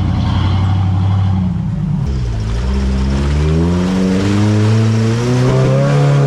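Off-road vehicle engine running steadily, then about two seconds in dropping back and revving up in a long, rising climb.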